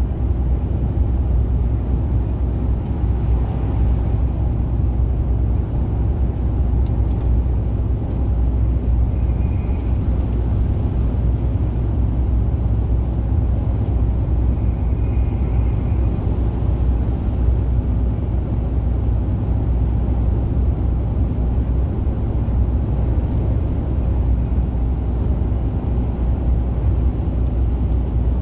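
Mercedes-Benz Actros truck cruising on the motorway: a steady, low engine drone mixed with road and tyre noise.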